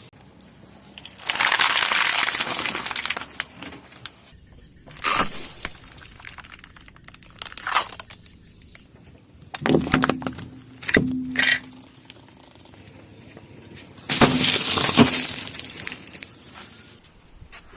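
Objects cracking and crunching as a car's tyres crush them, in about five separate bursts; the longest and loudest come about a second in and about fourteen seconds in.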